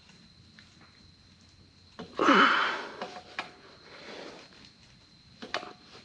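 A man's strained grunt and heavy breath of effort about two seconds in, the voice falling in pitch, followed by quieter breathing and a couple of sharp small clicks.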